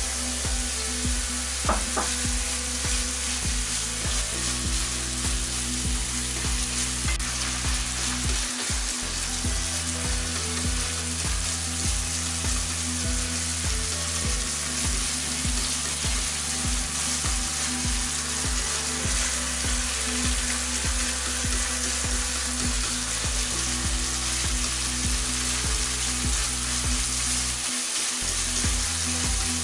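Minced pork sizzling steadily in a nonstick frying pan as it is stir-fried and turned with wooden chopsticks, the dark soy, fish and oyster sauce mix just poured in.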